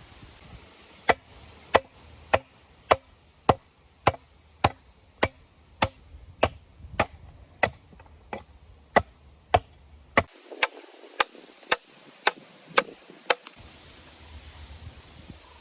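Wood being chopped with a blade: about twenty evenly spaced strikes at a steady pace of nearly two a second, stopping about thirteen seconds in.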